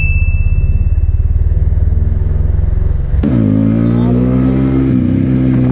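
Kawasaki ZX-10R superbike's inline-four engine at high revs, a rapid pulsing for about three seconds with a brief high ring fading at the start. Then the engine note falls and settles into a steady run.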